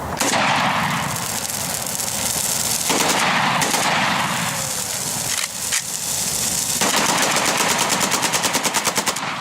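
Firecrackers and fireworks going off in a burning pile of dry Christmas trees: dense, rapid popping bangs that run together into a rattle, with a very fast, even string of pops in the last couple of seconds.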